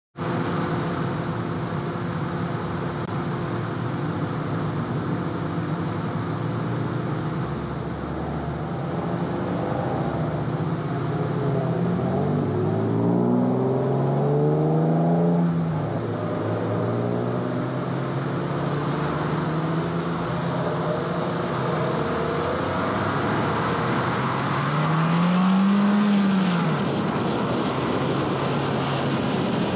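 A 2011 Honda Fit Sport's 1.5-litre four-cylinder engine pulling under load, with tyre and wind noise. The engine note holds steady at first, climbs near the middle and drops back as if at a gear change, then climbs and falls again near the end.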